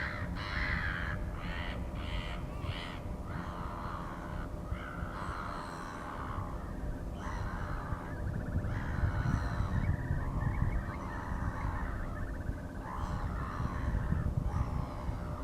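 Birds giving harsh, repeated calls, a dozen or so short calls about a second apart, over a steady low rumble.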